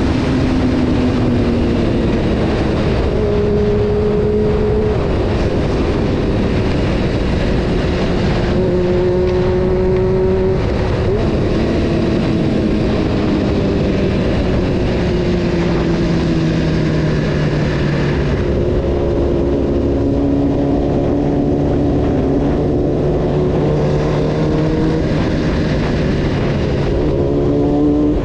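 Honda CBR600 F4 inline-four motorcycle engine running while being ridden, its pitch holding, dropping and rising with the throttle, with several rising revs in the last third.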